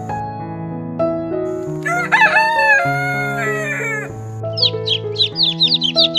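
A rooster crows once, about a second and a half in, over soft background music with sustained notes. From about four and a half seconds in, many chicks peep rapidly with short falling peeps.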